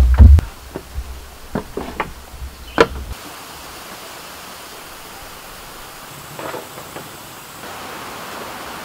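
Steady rain hiss. At first it runs over a low rumble with a few sharp knocks, which cut off abruptly about three seconds in.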